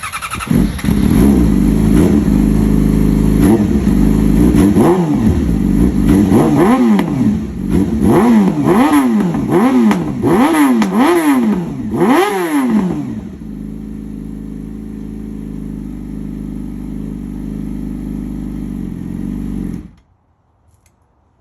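2018 Yamaha R6's inline-four through an SC Project slip-on exhaust with the catalytic converter removed, very loud: held at high revs, then blipped hard in quick rev sweeps about once a second, then settling to a steady idle before the sound stops abruptly near the end.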